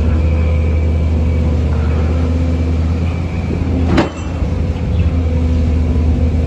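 Heavy engine running with a steady low drone, with one sharp knock about four seconds in.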